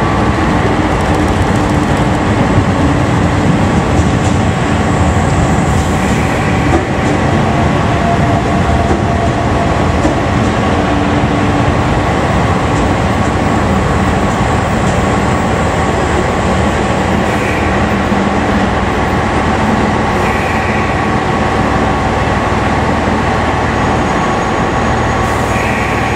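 A 381 series limited express electric train running slowly past along the platform: a loud, steady rumble of wheels on rails and running gear, with a thin steady squeal held above it.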